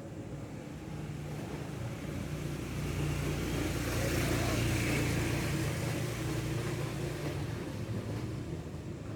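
A motor vehicle passing by: engine hum and road noise that grow louder to a peak about halfway through, then fade away.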